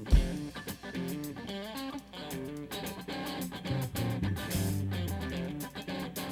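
Electric guitar playing the opening riff of a blues-rock song, with low bass notes under it, starting with a thump. The drums have not come in yet.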